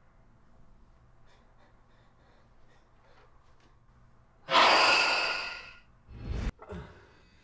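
A sudden loud, breathy cry in a person's voice about four and a half seconds in, fading over about a second and a half, followed by a low thud.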